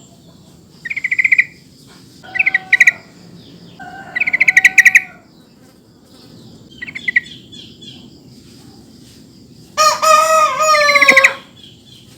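Yellow-vented bulbul (trucukan) calls: four short bursts of rapid, bubbly chattering notes, the lure call used to make other bulbuls answer. About ten seconds in comes a longer, louder and lower call lasting over a second.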